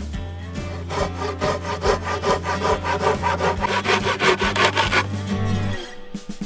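A Silky Gomboy folding hand saw cutting through a forearm-thick log in quick, even back-and-forth strokes, stopping about five seconds in.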